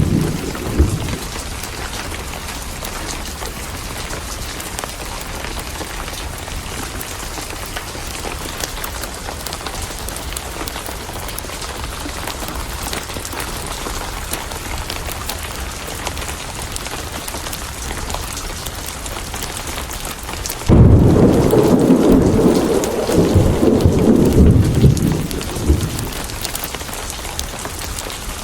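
Steady heavy rain. A roll of thunder dies away in the first second, and a loud thunderclap breaks suddenly about three quarters of the way through, rumbling for several seconds before it fades.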